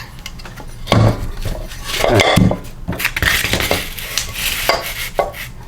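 Metal parts of a Briggs & Stratton small engine being handled during teardown: irregular clinks, knocks and scraping. The loudest is a knock about a second in, followed by a longer clatter around two seconds in.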